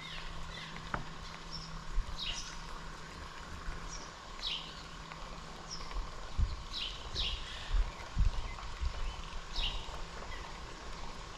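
A bird calling outdoors: short high chirps, each falling in pitch, repeated every second or two over steady background noise, with a few low thumps.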